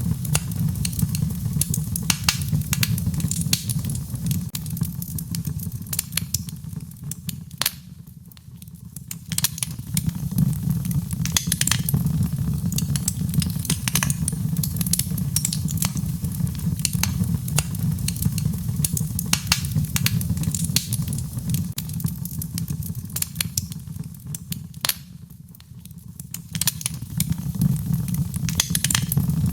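Wood fire crackling in a fireplace: many sharp pops and snaps over a steady low rumble of the flames, which dips briefly twice.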